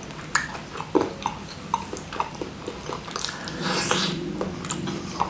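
Close-miked chewing of rice with spicy salted-squid sambal: wet mouth clicks and lip smacks scattered throughout, with a noisier stretch of chewing and breathing near the end.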